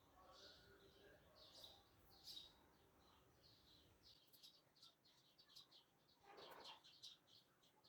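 Faint bird chirping: many short, quick chirps repeating throughout, with one louder, lower call about six seconds in.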